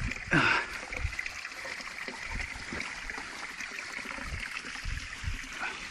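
Small creek waterfall splashing steadily, with a brief louder splash about half a second in and a few low thumps scattered through.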